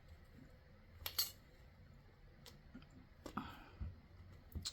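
A few faint clicks and taps of polymer clay and tools being handled on a work desk, the loudest a quick double click about a second in.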